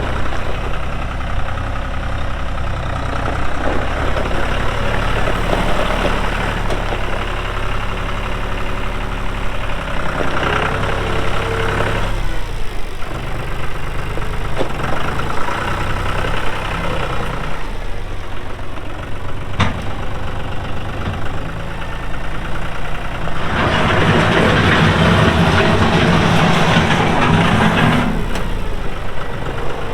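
John Deere 5105 tractor's three-cylinder diesel engine running steadily. The engine gets louder for several seconds about three-quarters of the way through, and there is one sharp click just past the middle.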